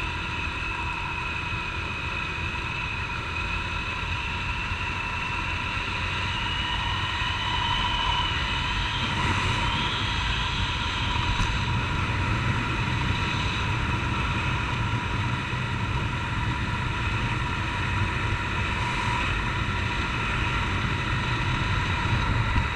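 Honda CG 150 Titan's single-cylinder four-stroke engine running steadily at road speed, with wind noise from riding on the helmet-mounted camera. The engine note rises a little about eight seconds in.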